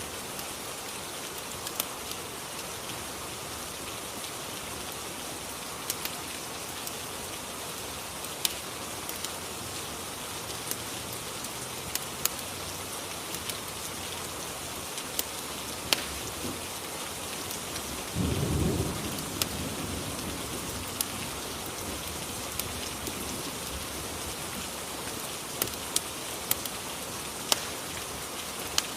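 Steady rain ambience with scattered sharp crackling pops from a fireplace. A low rumble of thunder rolls in about eighteen seconds in and fades over a couple of seconds.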